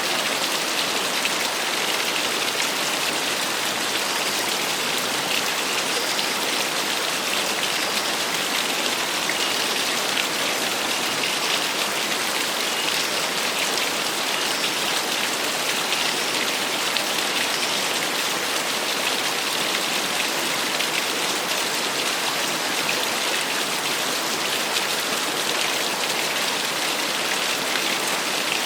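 Small waterfall: a steady, even rush of falling, splashing water, mostly high hiss with fine pattering detail.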